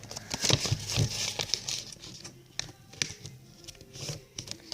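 A sheet of paper crinkling and rustling as it is folded and creased by hand, with scattered sharp clicks and taps. It is busiest in the first second or so and sparser after.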